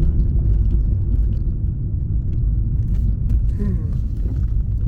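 Steady low rumble of an older car driving, heard from inside the cabin: engine and road noise.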